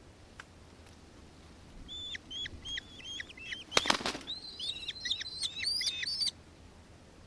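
Nankeen kestrel calling: a rapid, shrill series of short chittering notes, each dropping at its end. It starts about two seconds in and stops abruptly about six seconds in. Midway there is a short, loud burst of noise, the loudest sound.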